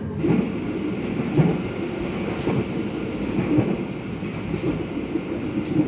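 Moving passenger train heard from inside the carriage: a steady rumble with irregular knocks and clatter from the running gear on the track.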